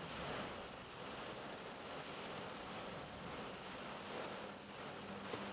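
Heavy wind-driven rain pouring down on a car, with wind gusts buffeting it, heard from inside the cabin as a steady rushing noise that swells and eases.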